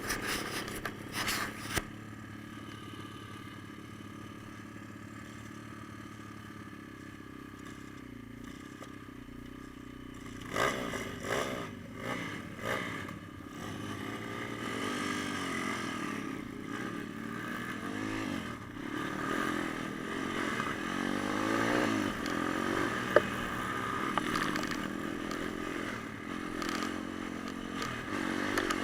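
Pit bike engine running low and steady, then revving up and down repeatedly from about halfway on, getting louder toward the end, with a few knocks and clatters around the time the revving starts.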